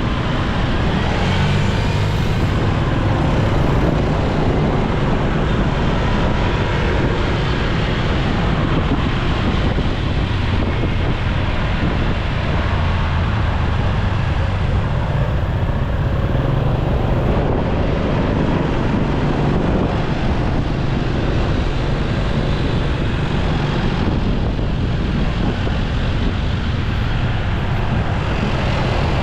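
Motorcycle riding through busy city traffic: steady engine and road noise with wind on the microphone, without letup.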